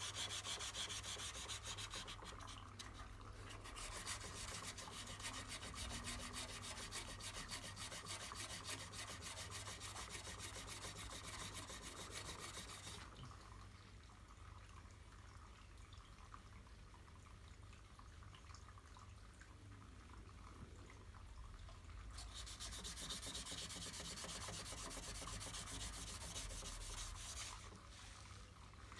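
Dry sanding of cured body filler, an abrasive hiss in three spells with quieter pauses between: a short one at the start, a long one through the first half, and another near the end.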